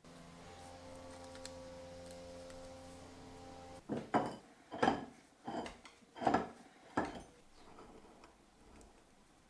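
A small electric motor hums steadily and stops about four seconds in. It is followed by about six scraping or rubbing strokes on metal, and the last of them are fainter.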